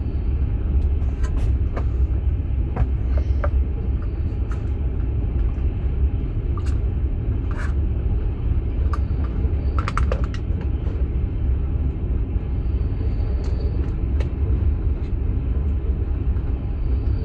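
Inside a moving Russian platzkart sleeper carriage: the train's steady low running rumble, with scattered small knocks and rattles over it.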